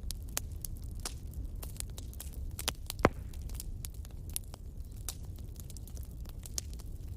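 Fireplace fire crackling with frequent sharp pops, one much louder pop about three seconds in, over a steady low rumble.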